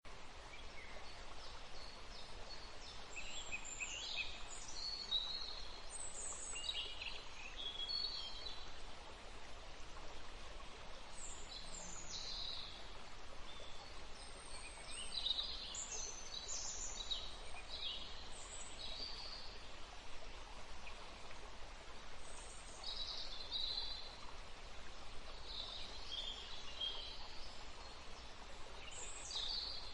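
Songbirds singing, short high-pitched sweeping phrases coming in clusters every second or two, over a steady background hiss.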